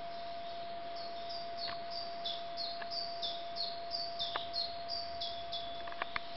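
A songbird singing a long run of high, evenly repeated two-part notes, each stepping down in pitch, about three a second, starting about a second in. A faint steady whine runs underneath, and a couple of sharp clicks come near the end.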